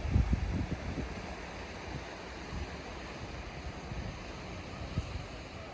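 Steady wash of sea surf mixed with wind on the microphone, with low wind buffeting in the first second or so.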